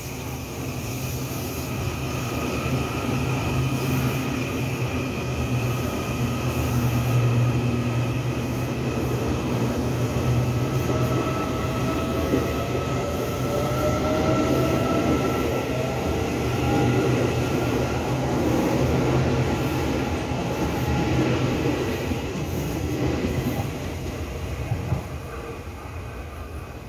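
Electric passenger train running along a station platform: a steady low hum of the train with thin whining tones that slide slowly in pitch, fading somewhat near the end.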